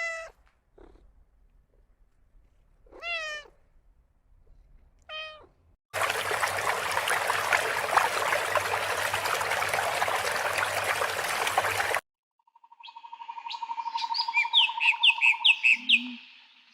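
A string of separate animal recordings: two short wavering calls like meows, then a steady hiss that runs about six seconds and cuts off abruptly, then a bird singing, a low trill with a run of quick high chirps over it.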